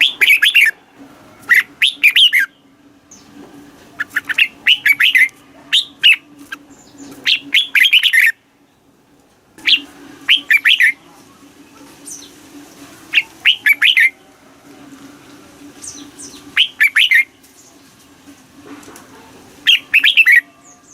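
Red-whiskered bulbul singing: short, loud phrases of quick, liquid warbled notes, repeated about every two seconds with brief pauses between, over a faint steady hum.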